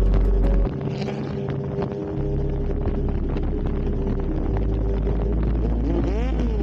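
Motorcycle engine running under way with wind buffeting the microphone; near the end the engine note rises and then falls as the throttle is opened and eased off.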